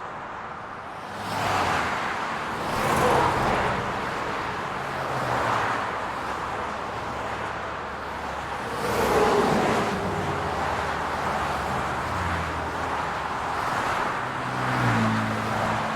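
City street traffic: cars passing one after another, each a swell of tyre and engine noise that rises and fades, with a steady low engine hum underneath.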